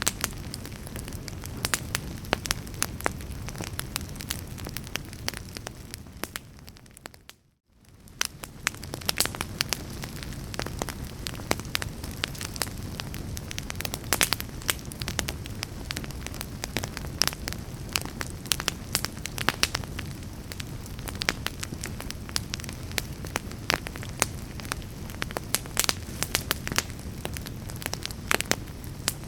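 Fire burning in a fireplace, crackling with frequent sharp pops over a steady low rush of flame. About seven seconds in the sound briefly fades out and comes back.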